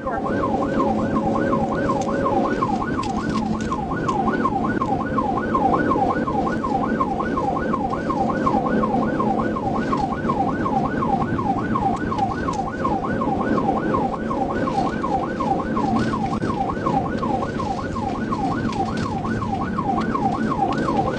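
Police car siren in a fast yelp, sweeping up and down about three times a second without a break, over the steady road and engine noise of a high-speed pursuit.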